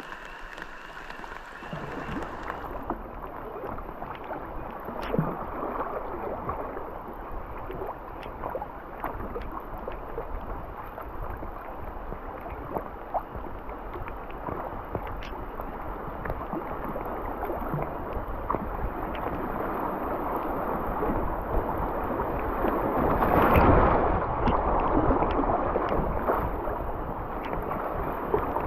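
River water rippling and gurgling around a kayak drifting downstream, with small scattered splashes. It grows louder, loudest about three-quarters of the way through.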